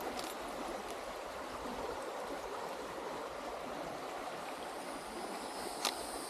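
Hillsborough River rapids: a steady rush of flowing water over rocks. A short click comes near the end, and a faint high insect buzz joins in.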